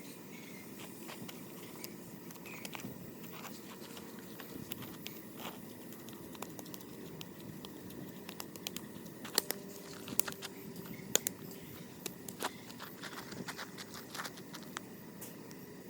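Irregular small clicks and taps, a few sharper ones around the middle, over a steady low background noise.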